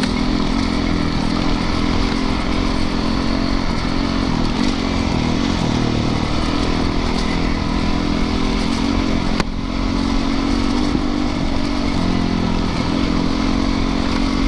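Single-cylinder four-stroke engine of a Yamaha YZ450FX dirt bike running steadily as it rides a rough trail, with one sharp click about nine and a half seconds in and a brief drop in engine sound after it.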